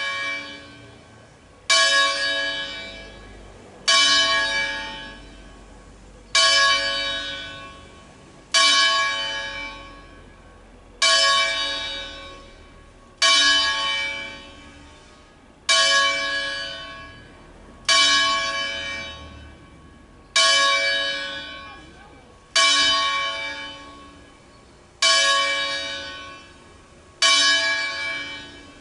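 A single church bell, the C#4 bell of a 1953 Angelo Ottolina ring, tolled in slow single strokes for the richiamo (call) before Mass. There are twelve strokes, about one every 2.4 s, and each rings out and fades before the next.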